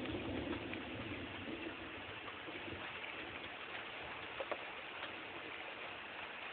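Steady rain falling in a thunderstorm, with a low rumble that fades away over the first couple of seconds. Two short sharp ticks come about four and a half seconds in.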